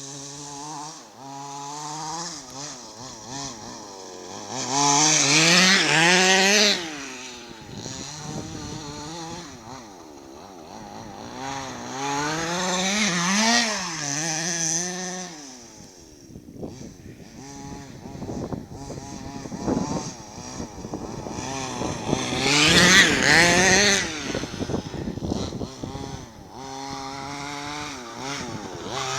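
Two-stroke petrol engine of a large-scale Pitbull X 4WD RC car with a banana exhaust, revving up and down as it drives. The revs rise and fall constantly, loudest in a high-rev run about five seconds in and again about twenty-two seconds in.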